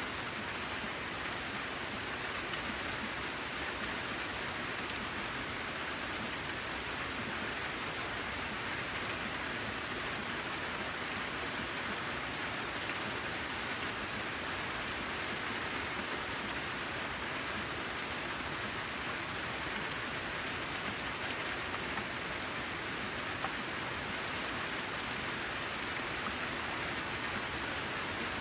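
Steady rain falling on a corrugated metal roof: an even, dense patter of drops, with a few sharper single drop hits standing out now and then.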